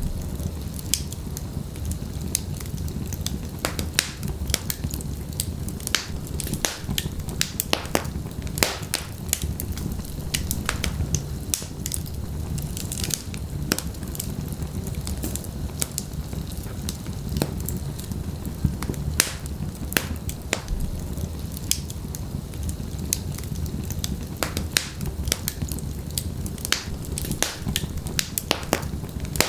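Wood fire of burning logs in a fireplace, crackling with frequent irregular sharp pops over a steady low rumble of the flames.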